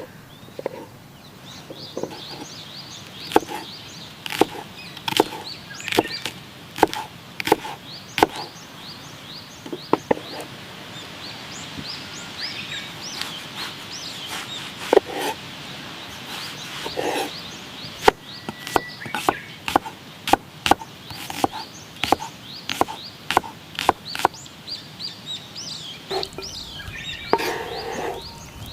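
A knife chopping on a wooden cutting board in many irregular strokes, with birds chirping throughout. Near the end a denser, noisier sound begins.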